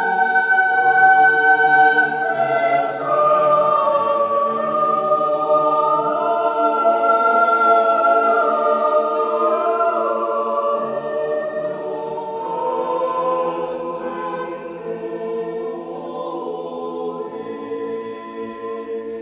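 Background music: a choir singing slow, held chords, growing quieter toward the end.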